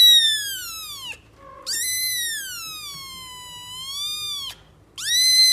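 A cat giving long, drawn-out, high-pitched meows, three in a row with short pauses between, each rising and then falling in pitch.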